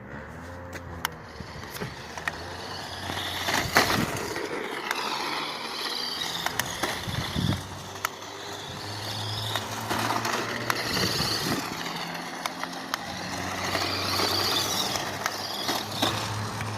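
RC drift car running on pavement: its electric motor whines up and down in pitch as it speeds up and slows, over a constant rolling tyre noise with scattered clicks. There is one sharp knock about four seconds in.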